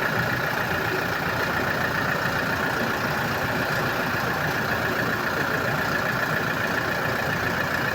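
Toyota Innova engine idling steadily.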